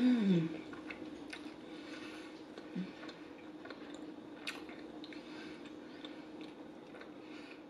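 Close-miked chewing of garlic pizza crust with the mouth closed: soft, scattered wet clicks and smacks. It opens with a short falling "mmm" hum of enjoyment. A faint steady hum runs underneath.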